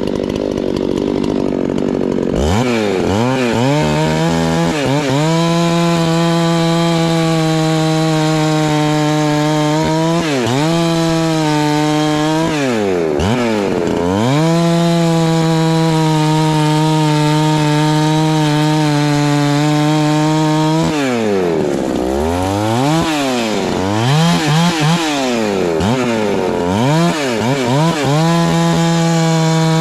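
Husqvarna 390 XP two-stroke chainsaw running: rough and noisy for the first couple of seconds, then the engine sweeps up to a steady high rev. It drops off and climbs back several times, with a quick run of throttle blips near the end.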